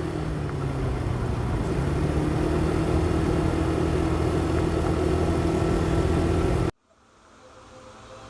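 Motorcycle engine running steadily under wind and road noise, picked up by a helmet-mounted mic; it cuts off abruptly near the end, and quiet ambient music begins to fade in.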